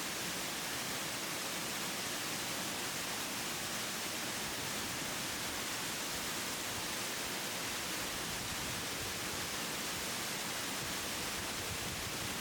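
Waterfall rushing, a steady even hiss.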